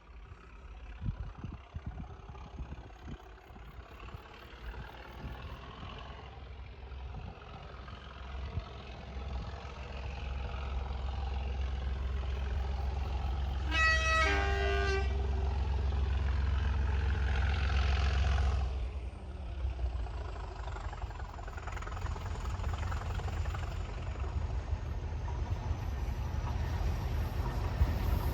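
Class 37 diesel-electric locomotive approaching, its deep engine rumble building, with a short horn blast about halfway through. The engine note drops away sharply a few seconds later as the train carries on past.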